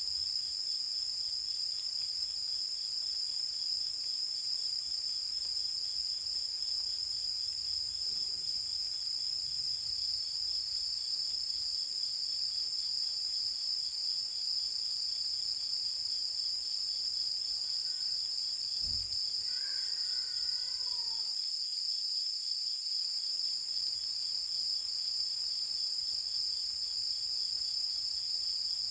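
Dense, steady chorus of night insects, mostly crickets, trilling high-pitched without pause. About two-thirds of the way through there is a faint low thump, followed by a brief faint call that falls in pitch.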